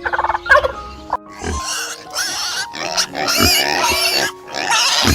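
Series of loud animal squeals and grunts, in repeated noisy bursts with a wavering high pitch, over background music with steady held notes. A short rapid rattling call sounds at the very start.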